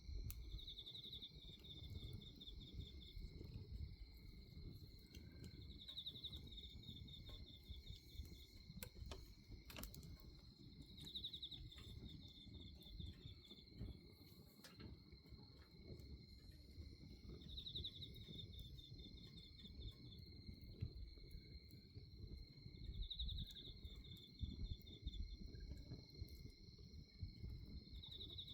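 Night insects trill steadily and high. One of them gives a short pulsed chirp phrase about every five to six seconds. Underneath is the low rumble of a bonfire with a few faint crackles.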